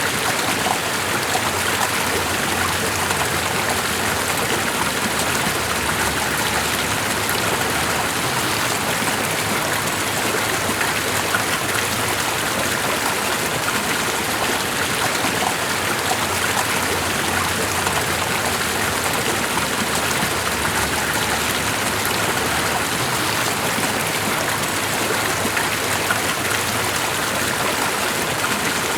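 Steady running water, an even rushing hiss that holds level throughout with no other sounds standing out.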